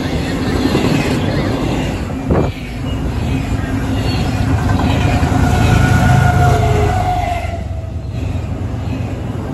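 Double-stack intermodal container cars rolling past, a steady rumble of steel wheels on rail. There is a short sharp sound about two seconds in, and faint high wheel squeals come and go in the second half.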